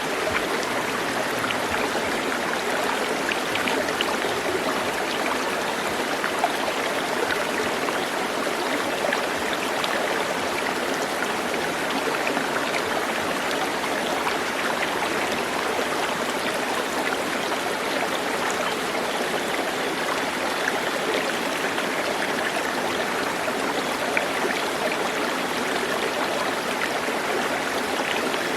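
Flowing water rushing steadily, with small splashes and trickles through it.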